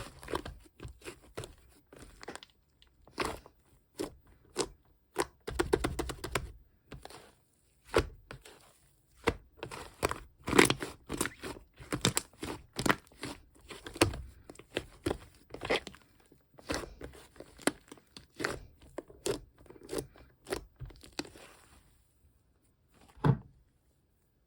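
Purple shaving-foam slime being squeezed, poked and stretched by hand, giving an irregular run of sticky crackles and small pops, with one last louder pop near the end.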